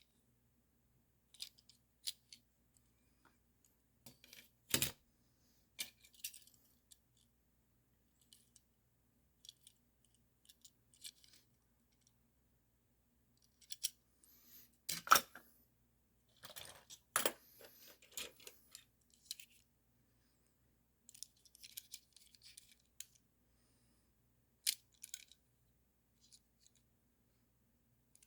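Scattered clicks, taps and short rustles of small hard objects being handled, with a few sharper knocks, the loudest about halfway through.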